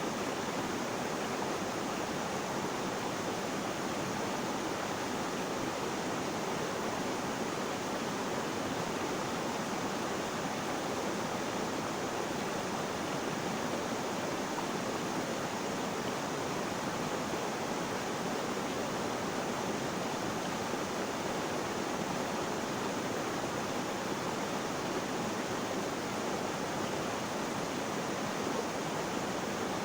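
Flowing water: a steady, unbroken rush with no changes in level.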